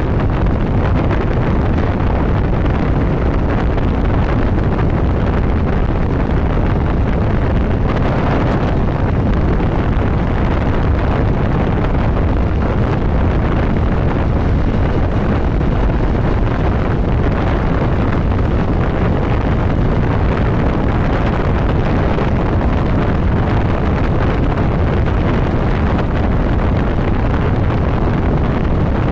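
Steady wind rushing over the microphone of a motorcycle riding at highway speed, with the bike's running noise underneath.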